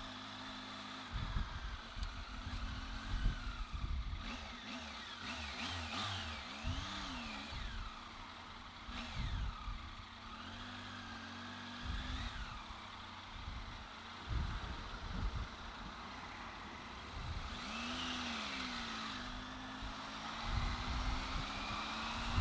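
Triumph Tiger 800XC's three-cylinder engine running at low road speed in traffic, its revs rising and falling several times as the throttle is opened and closed, over an uneven low rumble.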